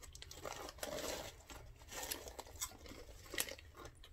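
Two people chewing small crispy chili-pepper wheat snack chips, a run of irregular crunches and crackles.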